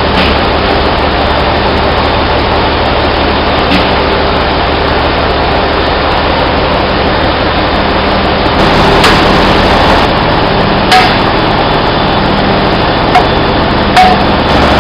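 Loud, steady running machinery noise with a few sharp metal knocks and clinks of tools striking pump parts, scattered through it.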